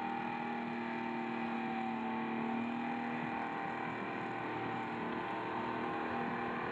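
Heavy forestry machine's engine running at a steady speed, giving an even hum with a steady pitch throughout.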